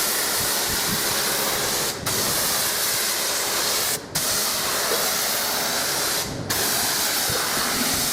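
Water spraying onto a car as it is rinsed before foaming, a steady hiss broken by three brief dips.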